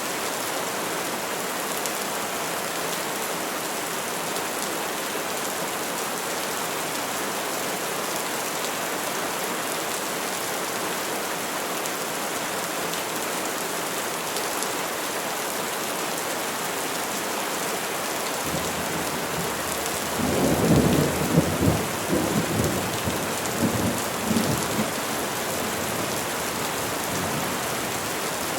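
Steady rain falling on trees, with a roll of thunder about two-thirds of the way through: a low rumble building into a few seconds of crackling claps, then fading back into the rain.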